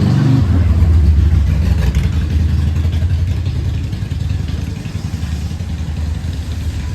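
Motor vehicle engine under way: a strong, steady low drone that settles in just after a rising rev at the start, then eases off slightly.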